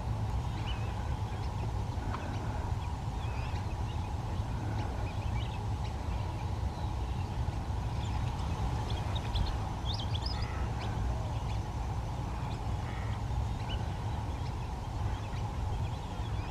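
Outdoor wetland ambience: a steady low rumble with many short, scattered bird calls and chirps, thickest about halfway through.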